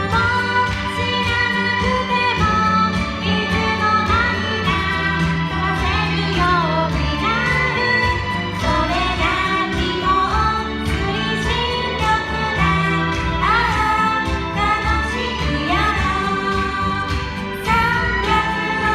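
Two female singers singing a Japanese pop ballad live over instrumental accompaniment, a sung melody with a steady bass line underneath.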